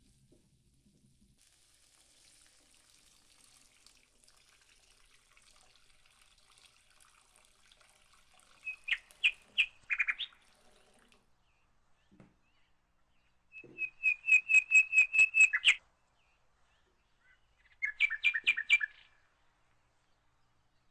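A bird chirping in three bursts of rapid, sharp notes, about six a second: a short run about nine seconds in, a longer run of a dozen notes around fourteen seconds, and a brief run near the end.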